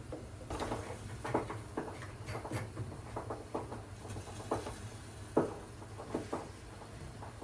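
Gas water heater tank popping and crackling in irregular sharp pops over a steady low hum. This is the sound of sediment caked on the tank bottom, still there after repeated flushing.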